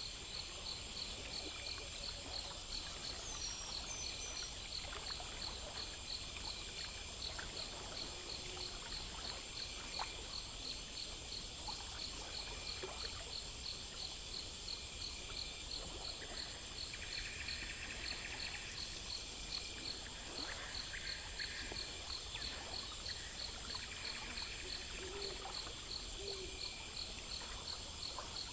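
Crickets and other insects chirping in a steady chorus, with an even, rapid pulse and a high continuous trill, over gently trickling water.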